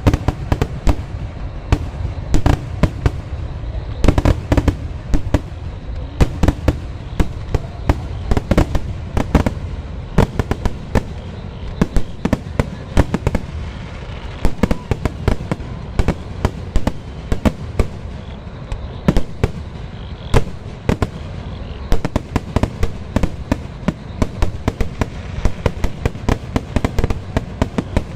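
Kerala temple-festival fireworks display (vedikkettu): a dense, unbroken barrage of firework bangs, many a second, over a constant low rumble of explosions.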